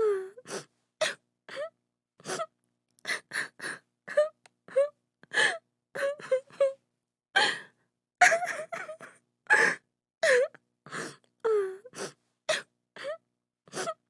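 A woman crying: short sobbing wails and gasping breaths in quick succession, a few each second, with dead silence between them.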